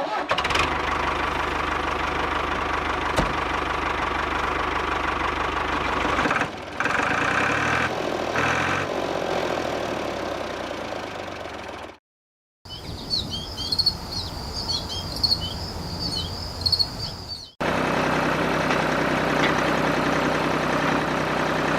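Tractor diesel engine running steadily, heard in several short clips. In a stretch in the middle the engine is quieter and birds chirp over it.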